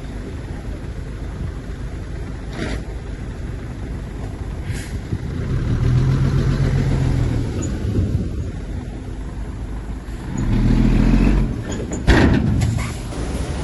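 Heavy diesel engine of an earthmoving machine running steadily, swelling louder twice as it works under load. A sudden sharp burst comes near the end.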